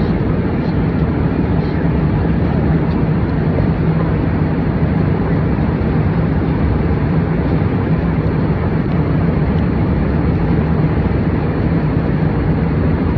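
Steady drone of an airliner in flight heard inside the passenger cabin: jet engine and airflow noise with a constant low hum, unchanging throughout.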